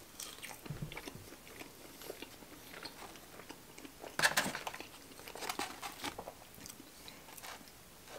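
Close-up chewing of crinkle-cut fries: soft, irregular mouth clicks and crunches, louder about four seconds in.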